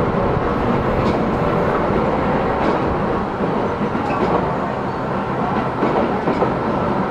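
Tobu 10030 series electric train heard from inside the car while running: a steady rumble of wheels and motors on the rails, with a few faint clicks.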